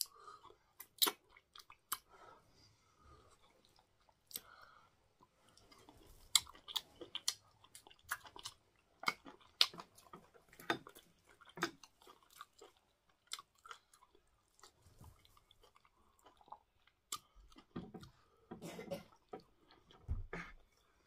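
Close-up chewing with many irregular wet mouth smacks and clicks: a person eating soft cocoyam fufu with bitter leaf soup.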